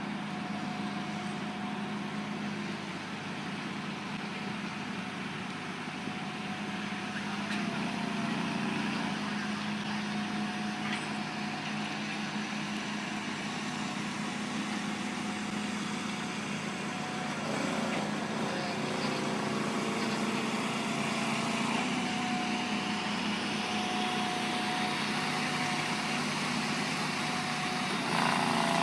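A vehicle engine running steadily with a constant hum, growing a little louder about eight seconds in.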